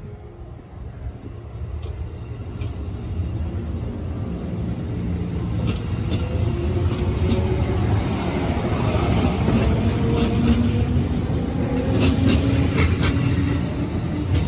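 JR Sagami Line 205-series electric train pulling away from the platform: a low rumble with a motor hum that rises in pitch as the train gains speed, growing louder toward the end. A few sharp clicks are heard along the way.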